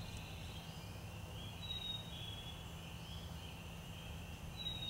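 Faint high-pitched songbird calls, short whistled notes repeating every second or so, over a steady low rumble of background noise.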